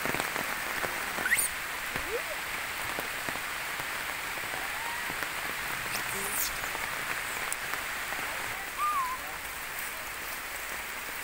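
Steady rain falling on forest foliage, a continuous even hiss. A few short high calls rise and fall over it, the clearest about a second in and near nine seconds.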